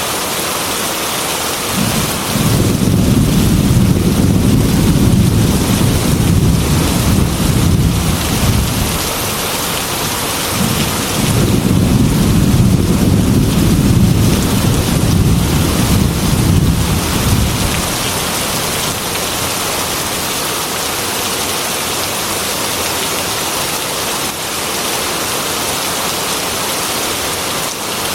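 Heavy rain pouring steadily on a metal roof, with two long rolls of thunder rumbling low, the first from about two seconds in and the second from about ten seconds in, each lasting several seconds.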